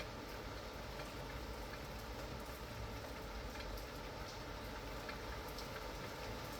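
Steady rain, with scattered drops tapping irregularly on a surface.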